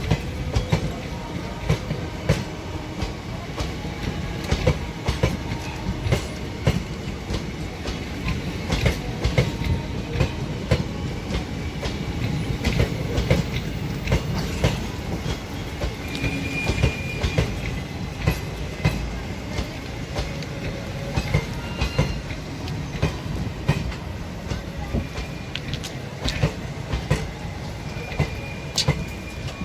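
Indian Railways ICF passenger coaches rolling on the track: a steady low rumble with many sharp wheel clicks over rail joints, and a few brief high wheel squeals.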